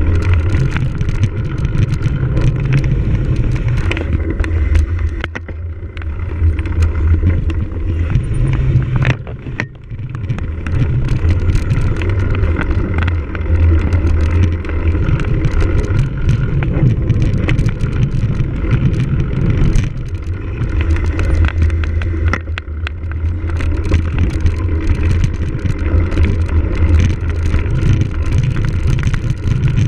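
Cyclocross bike ridden at speed over rough ground: a steady low rumble of wind and tyres with frequent rattles and knocks from bumps. The sound dips briefly about a third of the way in.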